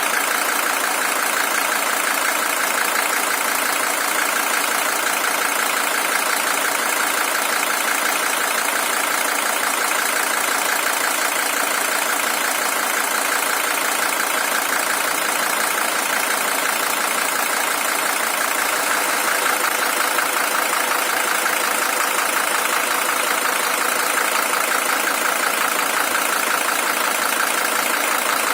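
Mercedes-Benz W123 300TD's OM617 five-cylinder diesel engine idling steadily, an original engine with about 620,000 km on it.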